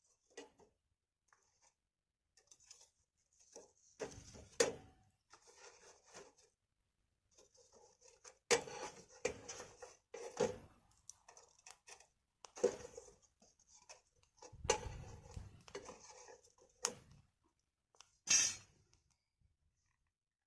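Wood fire crackling unevenly, with several sharp pops and snaps among quieter stretches.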